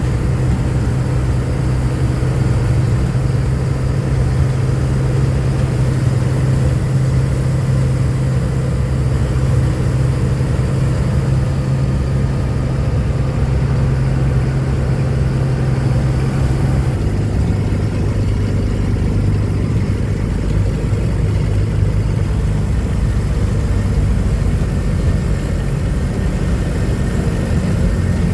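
Truck engine running steadily with a low hum. Its pitch drops noticeably about two-thirds of the way through, as the engine speed falls.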